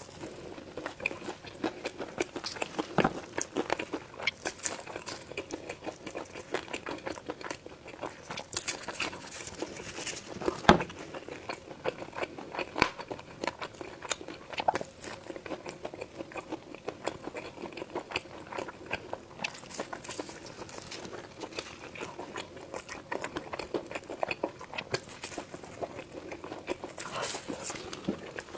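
Close-miked eating sounds: a person biting and chewing crunchy food, with many small wet clicks and crackles, and one sharper loud crunch about eleven seconds in.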